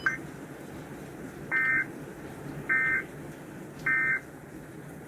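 NOAA weather radio sending its end-of-message data signal after a tornado warning broadcast: three short, identical buzzy warbling bursts about a second apart, following a click.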